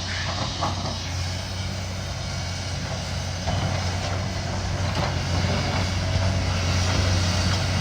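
Heavy diesel demolition machinery running steadily, a continuous low engine drone.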